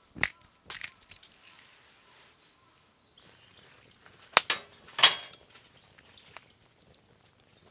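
A few sharp clicks and knocks, as of gear being handled, the loudest two about four and a half and five seconds in.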